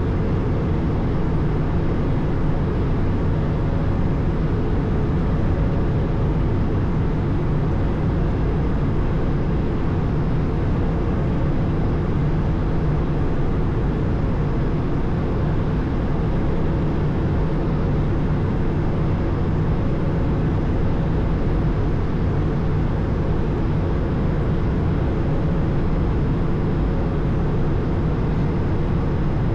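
Steady cabin noise inside an Airbus A220 airliner: an even drone of its Pratt & Whitney PW1500G geared turbofan engines and airflow, heavy in the low end with a faint steady hum on top.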